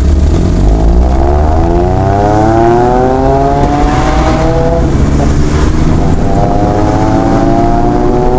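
Kei truck engine and exhaust accelerating. The pitch climbs steadily for about five seconds, falls back, then climbs again until it cuts off abruptly at the end.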